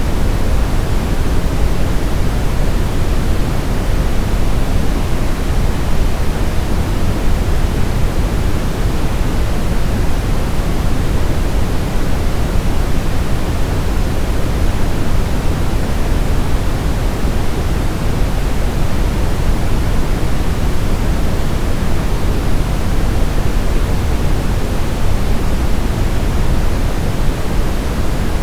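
Steady, unbroken pink noise: an even hiss, heavier in the low end, used as a baby sleep sound.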